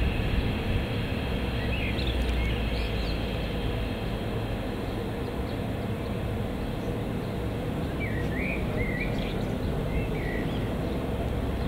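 Steady low rumble of rail traffic on the line, with a few short bird chirps about two seconds in and again between about eight and ten seconds.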